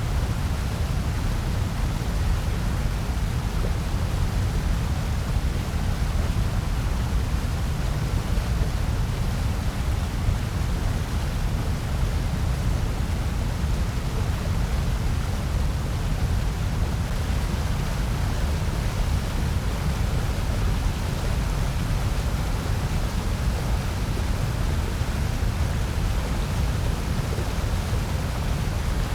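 Steady synthetic noise for sleep and focus: an even, unchanging rush with no tones or events, heaviest in the deep bass and thinner higher up.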